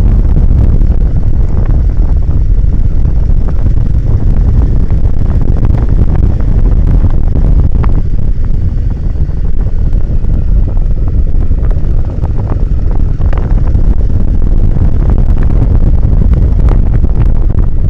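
Wind buffeting the microphone of a moving motorcycle: a loud, constant low rumble, with a few sharp knocks scattered through it.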